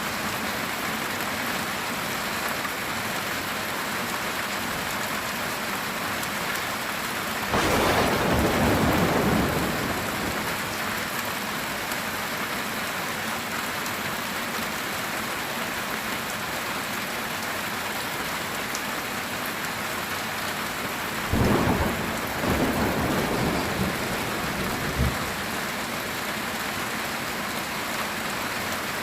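Steady heavy rain with two claps of thunder, one about a quarter of the way in and a longer, crackling one with rumbling about three quarters of the way through.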